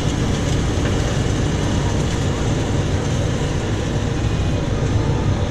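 Farm tractor engine running steadily, with a snowplow hooked up to it.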